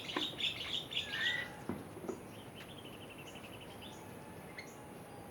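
Birds chirping and calling: a cluster of quick chirps for the first second and a half, a short falling whistle, then a fast, even run of high notes about halfway through.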